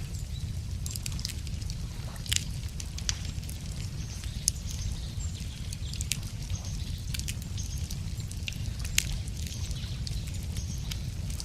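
Wood fire crackling, with irregular sharp pops, the loudest about two, four and a half and nine seconds in, over a steady low rumble.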